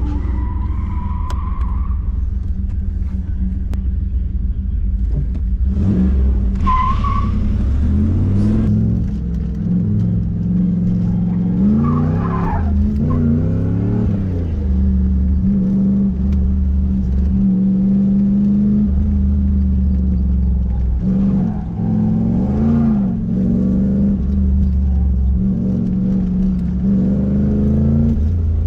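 Third-generation Pontiac Firebird's engine pulling through an autocross run, its pitch rising and falling several times as the driver gets on and off the throttle. Brief tire squeals come through in the corners.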